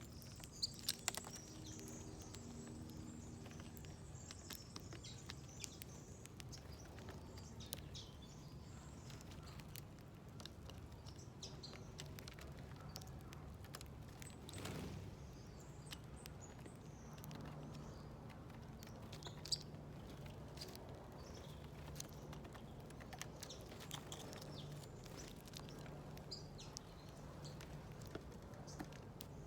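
Small wild birds at a garden feeder plate, chirping briefly now and then among scattered light taps and pecks, with a few sharp clicks. A brief whoosh comes about halfway, and a steady low hum sits in the background in the second half.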